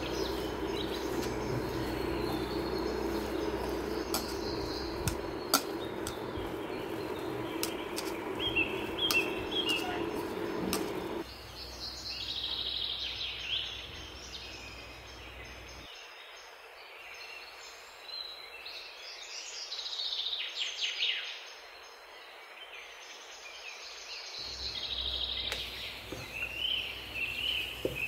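Birds chirping in short repeated calls. For the first third there is also a steady low drone with a few sharp clicks, which stops abruptly.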